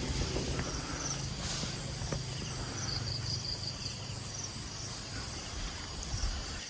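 Insects such as crickets chirping, with a steady high buzz and a short run of rapid, even chirps about three seconds in, over a low rumble.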